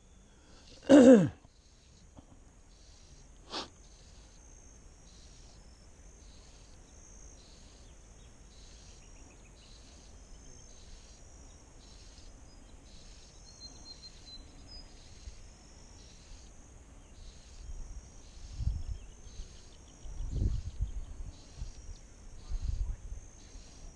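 Insects chirping in a steady, even rhythm of high pulses, with low rumbling bursts near the end.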